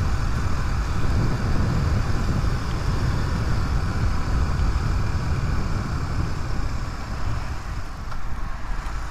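Suzuki DR250S single-cylinder motorcycle riding along at steady speed, its engine running under a low, steady rumble of wind on the helmet microphone.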